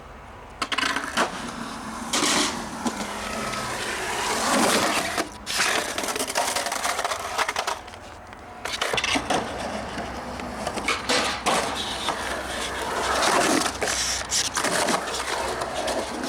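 Skateboard rolling with the rough noise of its wheels, broken by sharp clacks and knocks of the board. It starts suddenly about half a second in and drops out briefly twice.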